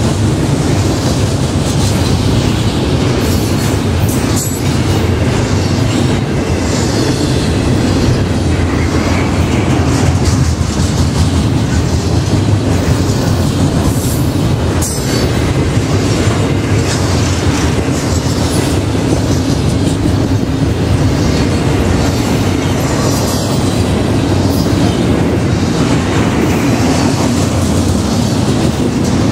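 Double-stack intermodal freight train's well cars rolling past close by: a steady, loud rumble of steel wheels on rail with clickety-clack as the trucks cross rail joints.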